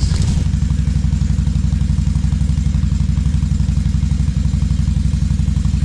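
ATV engine idling steadily, a low, even putter with no revving.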